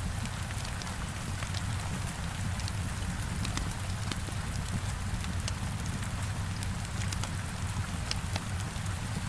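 Heavy rain falling steadily against a window, with a low rumble beneath it, mixed with a wood fire crackling in scattered sharp pops.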